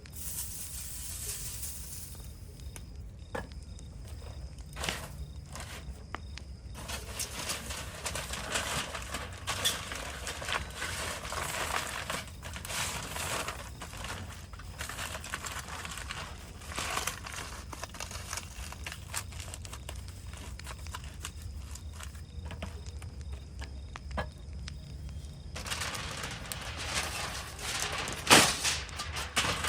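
Rustling and crinkling in several stretches, with scattered clicks and a sharp knock near the end.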